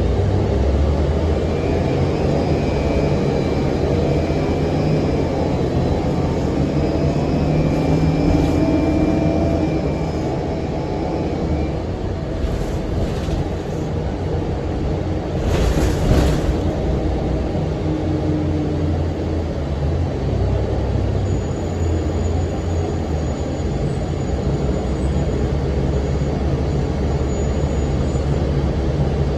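Cummins ISM diesel engine of a 2006 NABI 40' low-floor transit bus running under way, with its engine cooling fan whirring. The rumble is steady and wavers in pitch, and a short hiss comes about halfway through.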